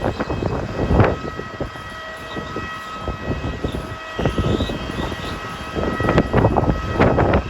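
Strong wind buffeting the microphone in rumbling gusts, heaviest about a second in and again near the end, over a steady high machine whine on the airport apron.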